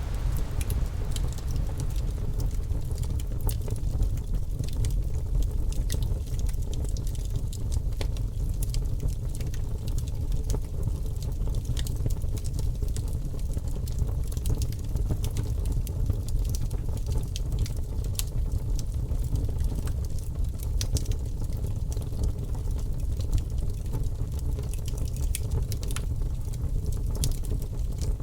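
Wood fire crackling in a fireplace: a steady low rumble with frequent sharp pops and snaps scattered throughout.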